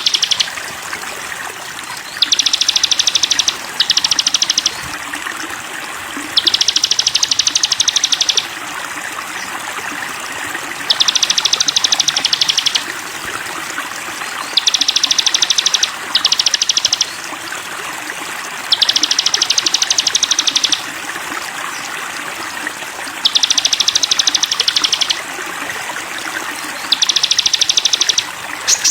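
Sogon bird singing a fast, high-pitched trill in phrases of one to two seconds, repeated about every four seconds, some broken into two short parts. A steady sound of running water, as of a stream, goes on beneath.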